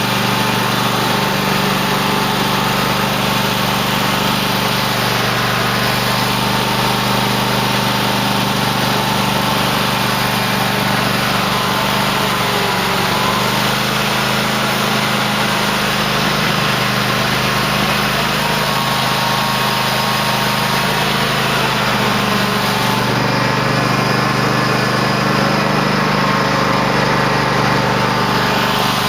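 Engine of a 2008 Cub Cadet LT1050 lawn tractor running steadily while it plows snow, its pitch shifting slightly a couple of times.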